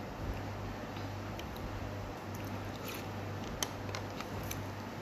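Close-up chewing of food, with scattered soft wet clicks and smacks and one sharper click about three and a half seconds in, over a steady low hum.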